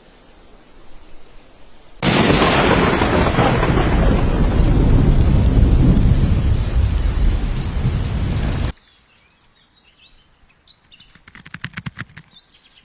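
A loud, steady rushing noise, heavy in the low end, starts about two seconds in and cuts off abruptly after about six and a half seconds. Then a few short high chirps and a quick run of clicks follow.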